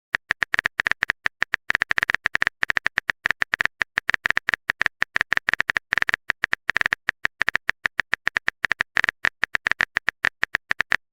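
Typing sound effect of a phone keyboard: a fast, uneven run of short, bright clicks, about ten a second.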